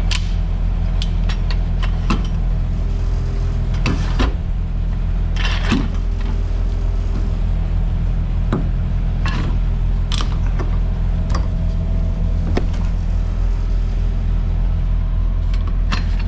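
Steady low mechanical hum with scattered metal clicks and knocks from a cargo load bar being fitted inside a trailer.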